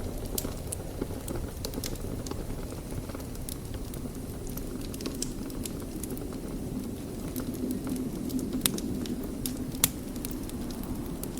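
Wood fire burning in a fireplace: a steady low rumble of the flames with irregular crackles and pops from the burning logs, two of them sharper and louder in the second half.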